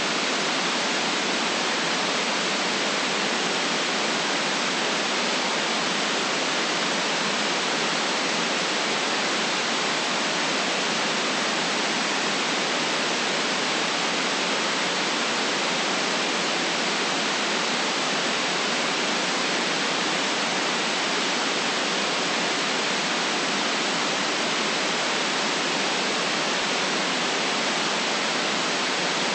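Steady white noise: an even, unchanging hiss with no deep bass and no top treble.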